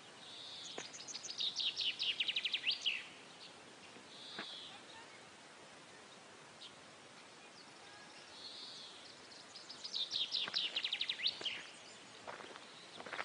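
A small bird sings two near-identical phrases about nine seconds apart, each a quick run of high, rapidly repeated chirps lasting about two seconds, over a faint steady hiss.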